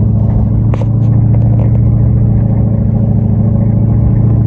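Dodge Ram pickup's engine running steadily under load as the truck climbs a dirt trail, heard from inside the cab. A short sharp knock comes a little under a second in.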